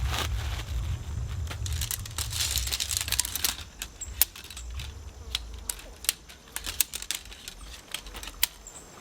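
A low rumble dies away over the first three seconds or so, followed by irregular sharp crackles and snaps of footsteps on dry leaves and twigs.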